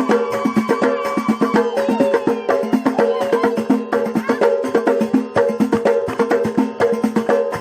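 Amazigh folk music of the Ait Ba Amran: a fast, steady beat on the naqous, a metal percussion piece struck with sticks, with drums under held tones and women singing.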